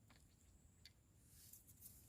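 Near silence, with a few faint clicks and a soft high hiss that rises about a second and a half in.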